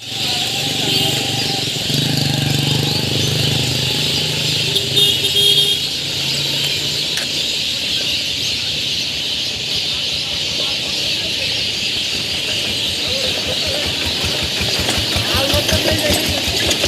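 Many birds chirping and chattering at once in a dense, steady din, with a lower pitched sound underneath for the first six seconds or so.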